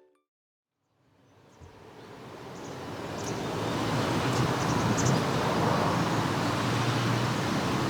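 Outdoor ambience fades in after about a second of silence and settles into a steady rushing wash with a low hum, the sound of road traffic noise.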